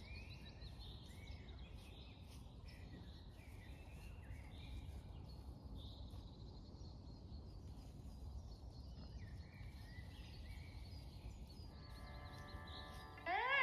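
Songbirds singing, many short chirps and phrases overlapping, faint over a low steady rumble of background noise. Guitar music starts right at the end.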